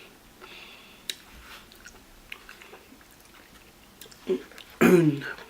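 Close-miked chewing of spicy noodles: faint wet mouth clicks and smacks, with a short bit of voice near the end.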